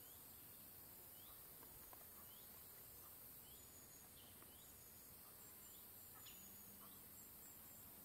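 Faint outdoor nature ambience: a bird repeating a short rising chirp about once a second, with a few brief higher peeps, over a steady high hiss.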